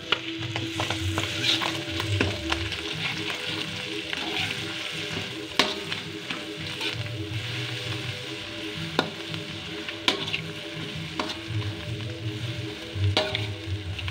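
Egg and chilli-garlic paste sizzling in hot oil in a wok, stirred with a metal spatula. The spatula clicks and scrapes against the pan now and then.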